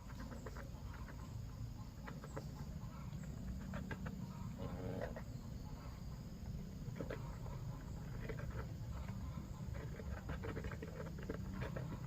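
Chickens clucking in short scattered calls, several birds at once, over a steady low rumble.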